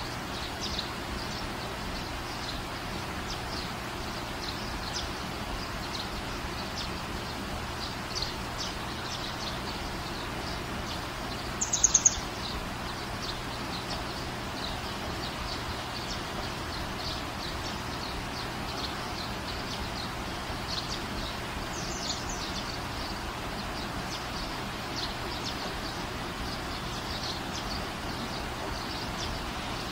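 Small birds chirping over steady background noise, with one louder, short, rapid trill about twelve seconds in.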